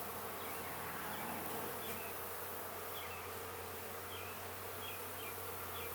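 Honey bees buzzing around an opened beehive, a steady, even hum.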